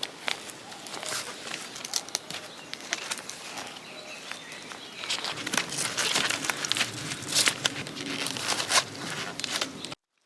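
Tent fabric being handled and shaken out, with a run of irregular rustling and crinkling that grows louder about halfway in. The sound cuts off abruptly just before the end.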